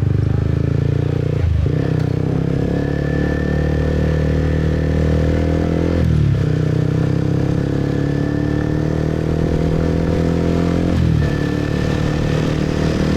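Motorbike engine running steadily under way, heard from the rider's seat. Its note climbs slowly and breaks briefly three times, about 1.5, 6 and 11 seconds in.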